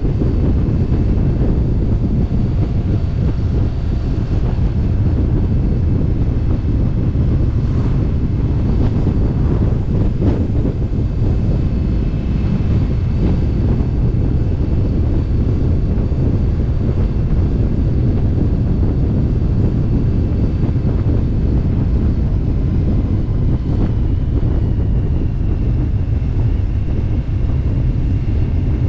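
Wind buffeting the microphone of a camera on a moving motorcycle at road speed, a heavy steady rush, with the motorcycle's engine running underneath.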